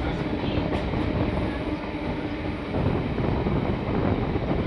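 Steady running noise of a moving passenger express train, a low rumble heard from on board, with a faint steady hum through the first half.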